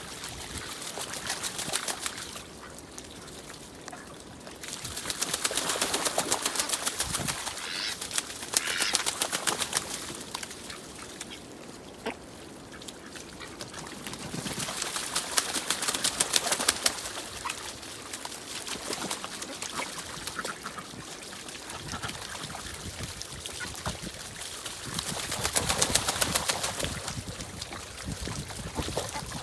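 Ducks flapping their wings and splashing on a pond in several bursts of a couple of seconds each, with a few short bird calls.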